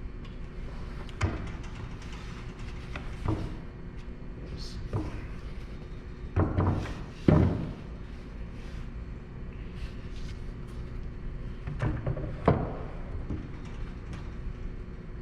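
Pieces of MDF and scrap being handled and set down on a table saw's table: a series of knocks and short scraping clatters, loudest about seven seconds in, over a steady low hum.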